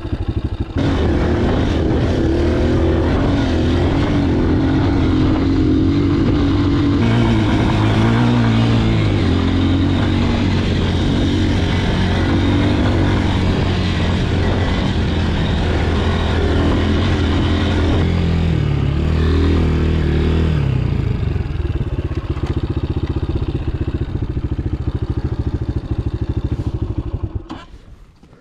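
Dirt bike engine running while riding, its pitch rising and falling with the throttle. It drops away suddenly near the end.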